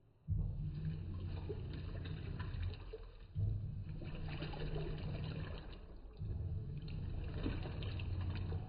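Electrolux LAC16 top-load washing machine agitating a high-water-level load on turbo: its 1/4 hp WEG motor, taken from an LT13B, hums in strokes about three seconds long with brief pauses between, over water sloshing in the tub. The agitation starts about a third of a second in.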